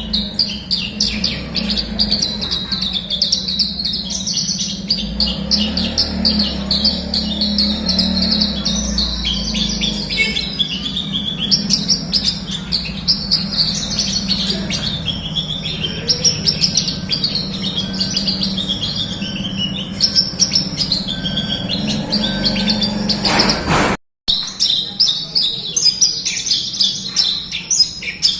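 Horsfield's bush lark (branjangan) song: a long, unbroken run of fast, varied high chirps and trills, over a steady low hum. Near the end there is a click, then the sound cuts out completely for a moment before the song resumes.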